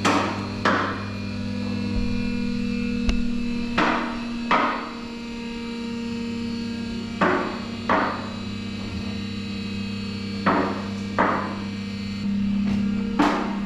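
Two-post vehicle lift rising under its electric hydraulic power unit, the motor running with a steady hum. Sharp metallic clanks come in pairs about every three seconds, the safety locks on the posts catching as the carriages climb.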